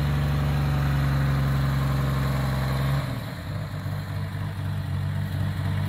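1965 Plymouth Barracuda's 225 slant-six engine running at a high, steady idle on a choke that the owner thinks is a little too tight. About three seconds in, the engine note suddenly drops lower and quieter and runs a little rougher.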